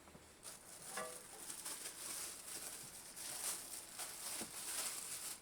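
Rustling handling noise with scattered light clicks and knocks, and a brief squeak about a second in.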